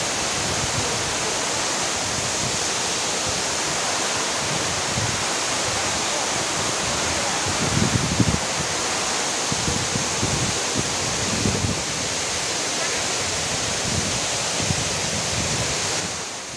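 Steady rushing roar of a waterfall, with uneven low rumbles underneath.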